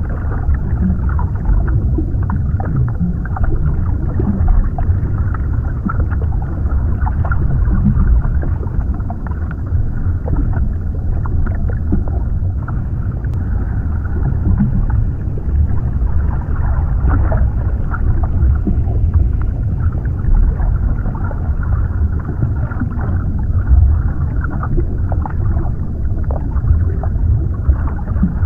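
Underwater ambience: a steady low rumble and rush of water, with small crackles and pops scattered through it.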